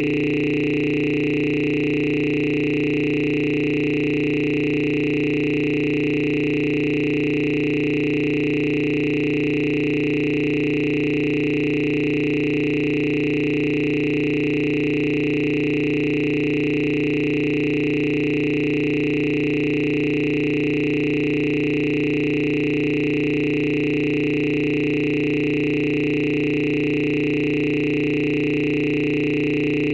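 A steady electronic drone of several held tones, unchanging in pitch and loudness.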